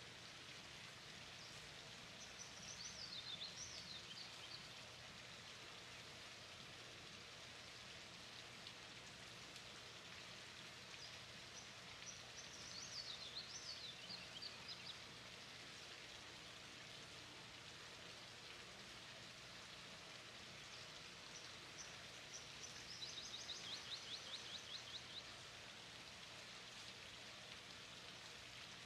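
Faint steady background hiss, with a bird singing three short, high-pitched phrases of quick notes about ten seconds apart.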